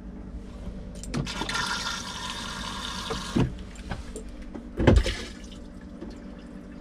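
Caravan cassette toilet flushing: about two seconds of rushing water, followed by two short knocks, the second the louder.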